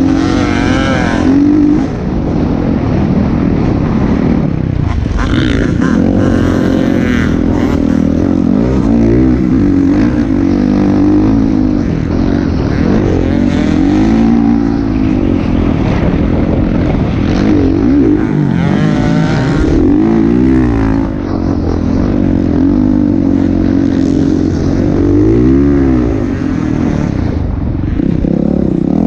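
Motocross motorcycle engines running hard, their pitch rising and falling again and again as the throttle is opened and closed.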